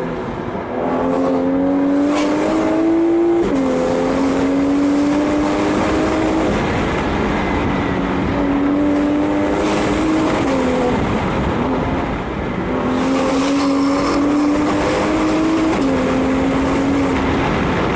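Straight-piped exhaust of a BMW 135i's turbocharged 3.0-litre inline-six with no catalytic converters or mufflers after the turbo, pulling under load. The engine note climbs steadily, then drops suddenly at each upshift, three times.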